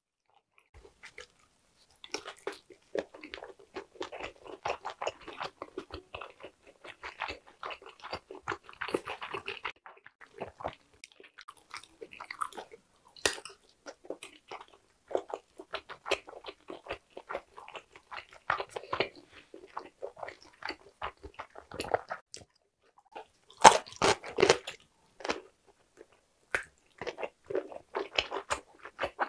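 Close-up mouth sounds of chewing Korean blood sausage (sundae): soft irregular wet smacks and squelches of a full mouth. A burst of louder bites comes about three quarters of the way through.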